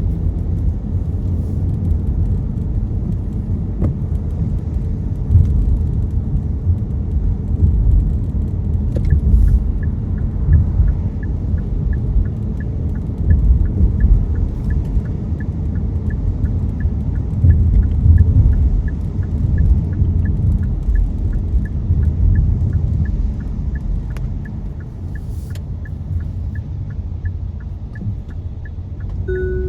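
A car driving on a wet road in the rain, heard from inside the cabin as a steady low rumble of tyres and engine. From about nine seconds in, a light, even ticking runs at about two ticks a second, and a short beep sounds near the end.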